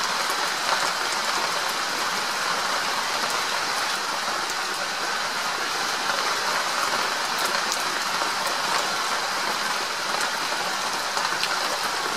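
Steady heavy rain falling, a constant hiss with scattered sharper ticks of single drops.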